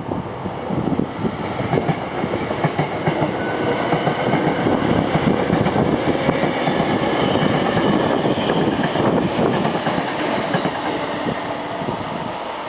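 Hankyu electric commuter train running past, its wheels clattering over the rail joints in quick succession; loudest in the middle, then easing off toward the end.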